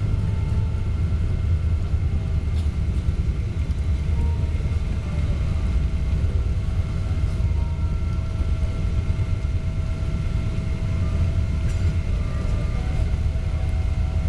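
Steady cabin noise inside a Boeing 777-200 airliner after landing: a low rumble with a few faint, steady whining tones from the engines.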